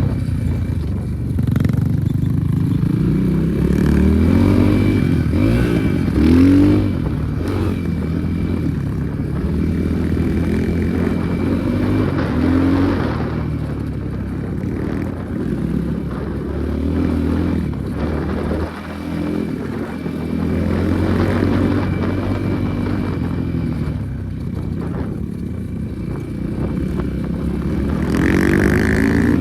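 Enduro motorcycle engine running under way, revving up and easing off again and again.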